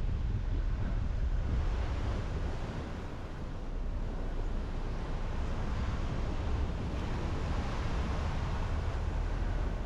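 Steady road noise from a car driving: a low rumble of tyres and engine with a hiss of wind over it.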